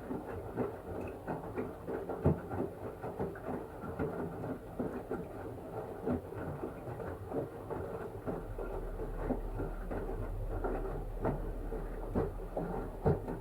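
LG washing machine running with a blanket in the drum: a steady machine hum under frequent irregular knocks and thumps as the load tumbles, with a low, even hum coming in about eight seconds in.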